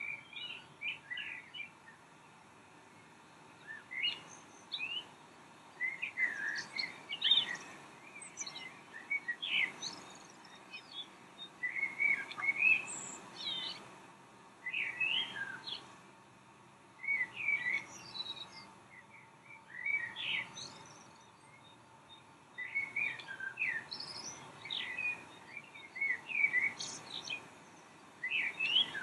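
Songbird singing: short phrases of quick, varied chirping notes repeated every two to three seconds, with brief pauses between.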